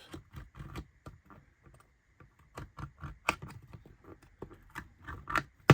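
Knife cutting through the small tabs that hold laser-cut wooden window pieces in their sheet: irregular light clicks and ticks, with one sharp, louder click near the end.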